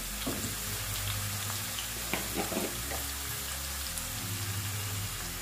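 Chopped green tomatoes frying in oil in a non-stick pan, a steady, even sizzle.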